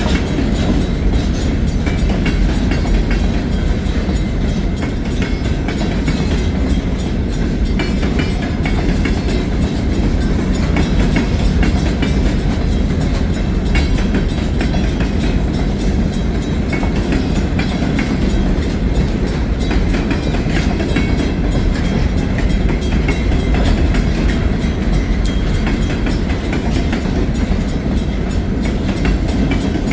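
Freight train cars rolling past at close range: a steady heavy rumble with wheels clicking and clacking over the rail joints.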